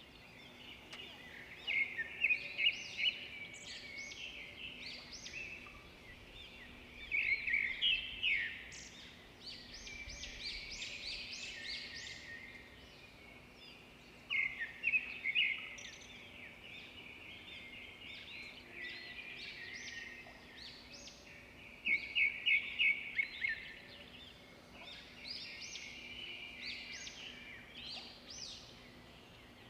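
Many small birds chirping and chattering together, with louder flurries of rapid chirps every several seconds over a faint steady hum.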